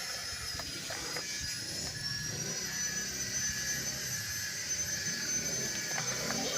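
Radio-controlled model excavator's motors running with a steady high-pitched electric whine that drifts up in pitch a couple of seconds in and then holds, with a few light clicks.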